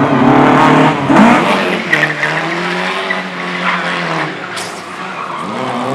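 Race car engine revving hard with tyres squealing and skidding. After about a second and a half the engine settles to a quieter, steadier note, then picks up again near the end.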